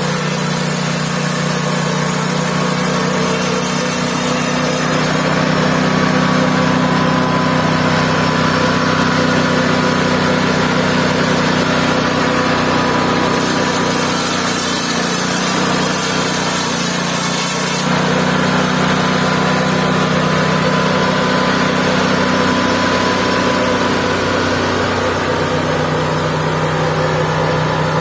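Engine-driven mobile band sawmill running steadily, with a high hiss that changes a few times, between about 5 and 18 seconds in.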